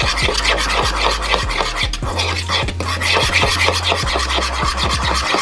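A utensil stirring and scraping a thick sauce in a bowl: quick, continuous rasping strokes, with background music's bass line underneath.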